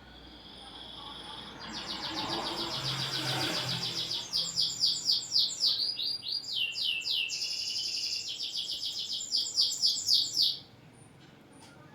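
Domestic canary singing a long song: a soft whistle, then fast rolling trills and quick sweeping phrases, breaking off suddenly about a second before the end.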